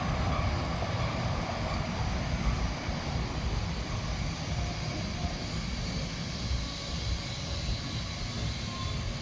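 Steam-hauled train of DR class 50.35 locomotive 50 3516 running, a steady low rumble with a rushing noise over it.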